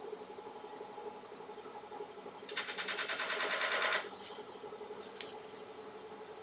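Wood lathe running with a steady hum and high whine while a turning gouge cuts the spinning Iroko platter blank. About two and a half seconds in, a louder rapid, rattling cut lasts about a second and a half, then the lathe runs on alone.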